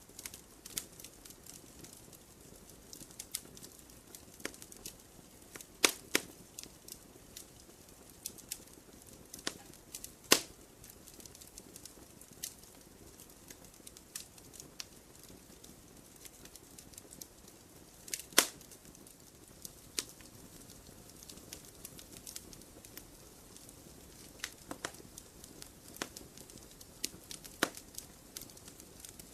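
Wood campfire crackling: irregular sharp snaps and pops over a soft steady hiss of burning, with a few much louder pops scattered through.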